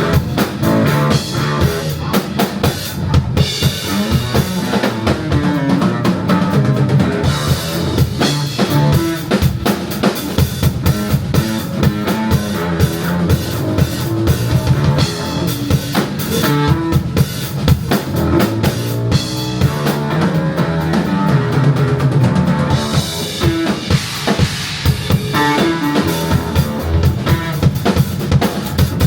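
Live rock band playing an instrumental passage with drum kit prominent: bass drum, snare and rimshot hits over bass guitar and other instruments.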